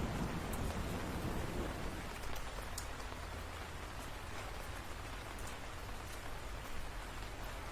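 Steady rain falling, with a low thunder rumble dying away over the first couple of seconds and a few faint sharp drop ticks.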